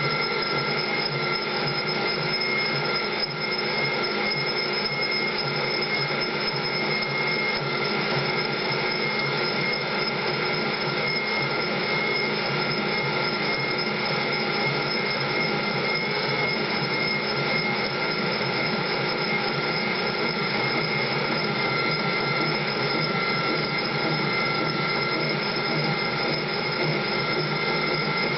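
A power tool or machine tool running continuously at a constant speed, with a steady whine over a noisy hiss.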